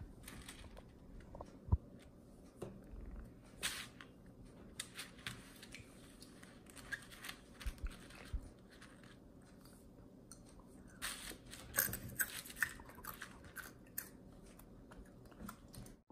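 A young child eating crunchy cereal flakes by hand: faint, short crunches of chewing and small clicks of flakes picked off a plastic plate, coming in irregular bunches and busiest a little past the middle.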